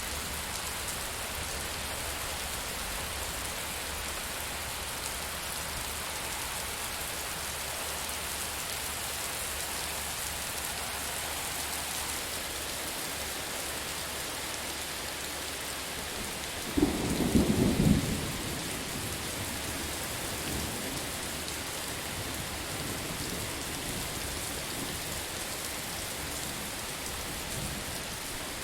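Steady heavy rain falling, with a sharp crack of thunder about two-thirds of the way through that rumbles away over the next few seconds.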